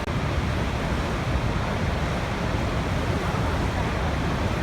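Waterfall rushing: a steady, unbroken roar of falling water, heaviest in the low end.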